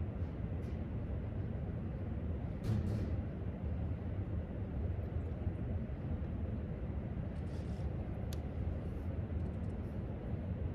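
Library room tone: a steady low rumble with a few faint clicks and taps, the sharpest a single click about eight seconds in.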